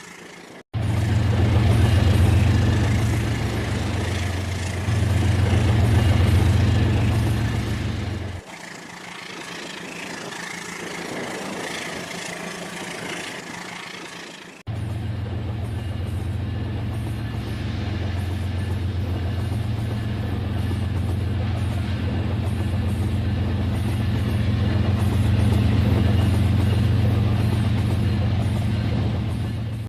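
Battery-powered remote-control toy train running on its track: a steady motor and gear hum. It cuts off abruptly and resumes about a second in, and again near 8 and 15 seconds, and is quieter between those last two cuts.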